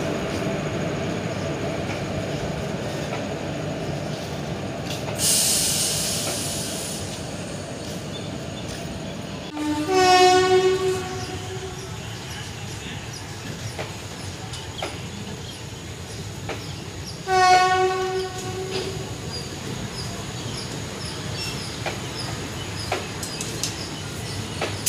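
Indian Railways passenger train's coaches rolling out with a steady rumble. A brief high hiss comes about five seconds in. The locomotive horn sounds two blasts of about a second and a half each, around ten and seventeen seconds in, the loudest sounds here. Faint regular clicks of wheels over rail joints follow near the end.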